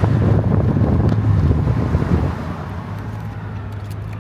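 Car engine running under way, a steady low drone mixed with road and wind noise. It is louder for about the first two seconds, then eases off to a quieter steady run.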